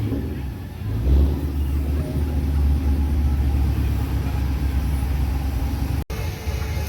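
A car engine running with a deep, steady low rumble that starts about a second in and cuts off abruptly near the end.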